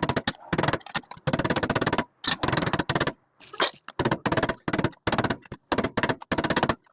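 Electric sheet-metal shears cutting steel patch panel in a series of short runs, each a rapid chattering lasting a fraction of a second to about a second, with brief stops between.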